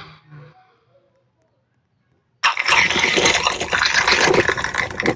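A loud, harsh rushing and crackling noise with no clear pitch, starting abruptly about two and a half seconds in after a near-quiet pause.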